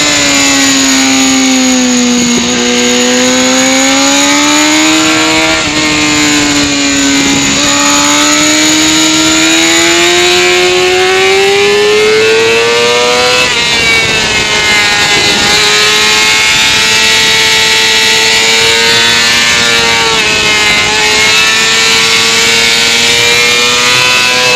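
Sport motorcycle engine at high revs on a circuit lap. The engine note dips over the first two seconds, then climbs with a couple of brief drops at gear changes to its highest point about halfway. It then falls a little and holds fairly steady through a long bend. A steady rush of wind noise runs underneath.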